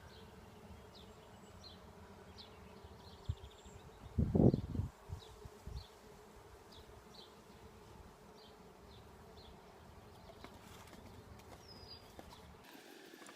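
Honeybees buzzing around an open hive, a steady hum, with a few loud low thumps about four to five seconds in and a bird chirping about twice a second over it.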